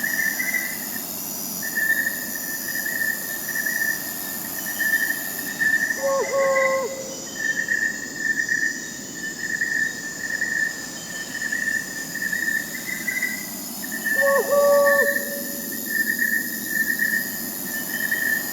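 Night insects, crickets, trilling steadily in several layers, one high trill breaking off and resuming. Twice, about six seconds in and again about eight seconds later, an owl gives a short hoot that drops in pitch at the end.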